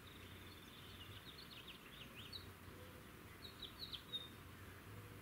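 Near silence, with a bird's faint high chirps and a short trill scattered through the first four seconds.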